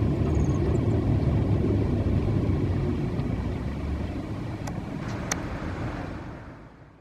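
Low rumble of an Airbus A350-1000's Rolls-Royce Trent XWB engines as the jet climbs away after takeoff, slowly weakening and fading out near the end, with two faint clicks a little over halfway through.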